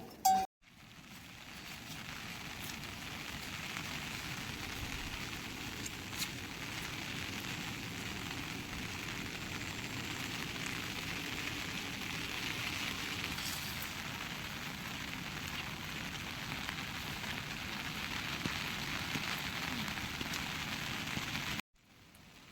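Steady rain falling, an even hiss with a few faint drips or ticks. It cuts in just after the start and cuts off abruptly near the end.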